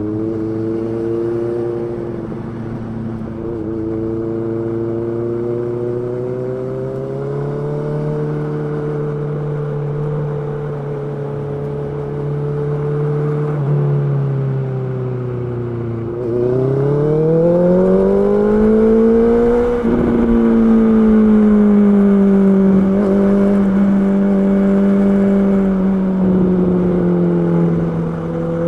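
Honda CB650R's inline-four engine running, its pitch holding fairly steady, then climbing as the revs rise about two-thirds of the way through and slowly falling back.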